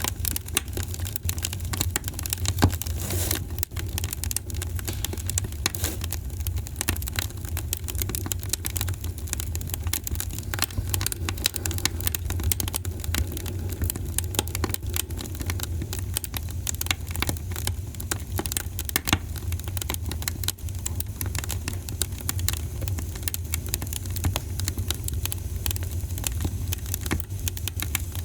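Fireplace fire crackling: dense, irregular small snaps and pops over a steady low rumble of the flames, with one louder pop about three seconds in.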